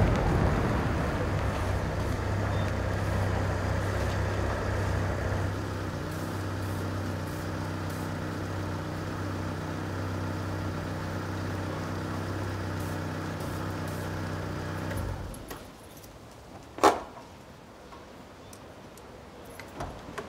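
A car engine idling with a steady low hum, switched off about three quarters of the way through. One sharp click follows a couple of seconds later.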